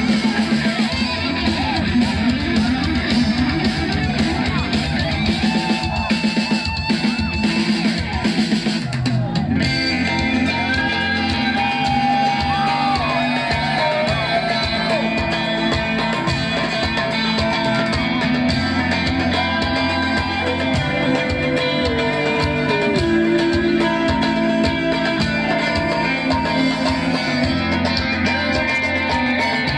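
Live band playing a rock song: electric guitar over a steady beat, with singing at times.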